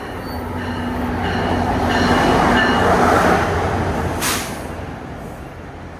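A train passing at the station, its rumble building to a peak two to three seconds in and then fading, with faint high-pitched wheel squeal. A short burst of hiss comes about four seconds in.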